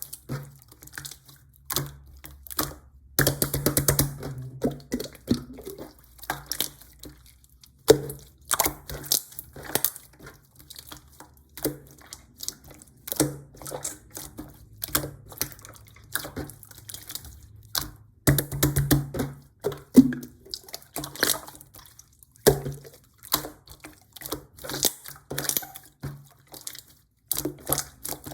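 Close-up crunching and crackling: irregular short snaps and crinkles, with two denser bursts of crushing, one a few seconds in and one about two-thirds of the way through.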